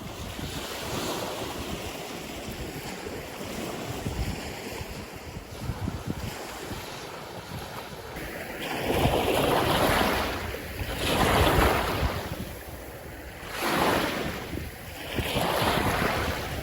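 Wind on the microphone over the wash of sea surf. About halfway through come four louder surges a couple of seconds apart.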